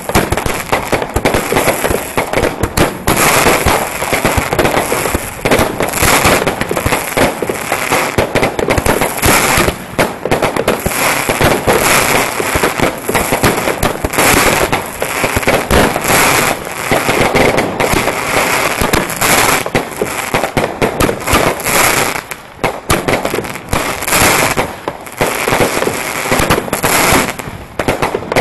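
Consumer firework batteries going off close by: a dense, continuous stream of rapid launches, bangs and crackle with hardly a pause.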